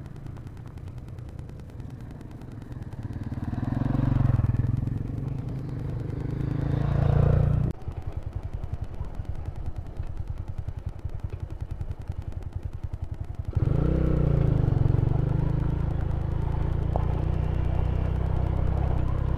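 Honda Tiger single-cylinder motorcycle engines running on a rough dirt track. For the first several seconds the engine note swells and fades. Then the sound cuts abruptly to a bike running steadily with a rapid rough rattle, and cuts again about two-thirds of the way in to a steadier engine hum.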